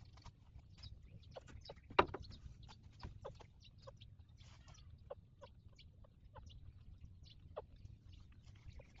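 Newborn puppies squeaking in many short, irregular peeps while nursing, with one louder sharp squeak about two seconds in.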